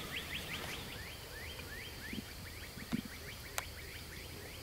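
A songbird singing a long run of quick, rising whistled notes that slow down in the middle and then speed up again. A couple of soft knocks and sharp clicks come near the middle.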